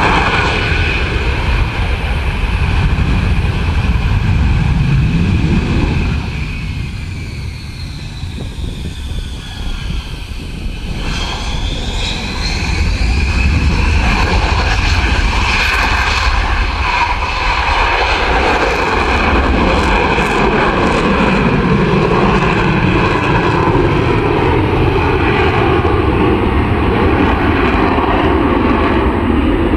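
F-35B fighter jet's single F135 jet engine flying at night: a loud, steady jet noise that eases off for a few seconds, then swells again with a sliding change in pitch about eleven seconds in as it passes, staying loud to the end.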